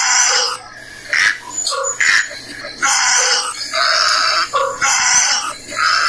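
Harsh, raspy bird calls repeated about once a second, each lasting about half a second.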